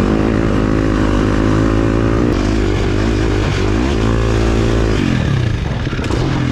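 2023 KTM 350 SX-F's single-cylinder four-stroke engine being ridden, its pitch rising and falling with the throttle, then dropping off and settling lower near the end.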